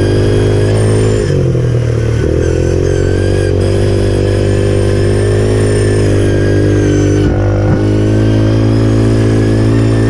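Pit bike engine running steadily while being ridden, with a brief drop and pick-up in revs about a second in and another short change near the end.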